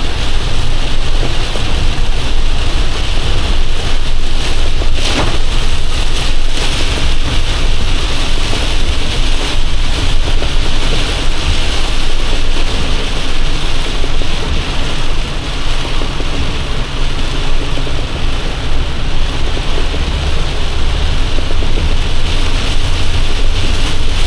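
Heavy rain beating on a box truck's cab over a steady low rumble from the truck, with one brief knock about five seconds in.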